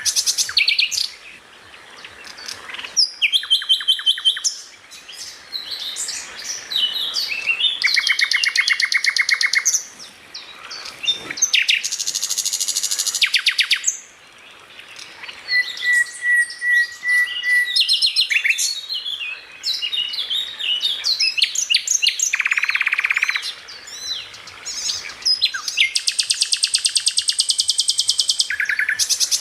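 Songbird song: loud, rapid, rattling trills of a few seconds each, alternating with quick varied chirps and a short pulsed whistle.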